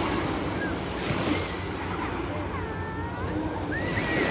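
Small waves breaking and washing up on a sandy beach: a steady rush of surf.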